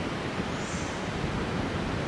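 Steady rushing noise with no distinct events, the kind made by wind, surf or a moving vehicle.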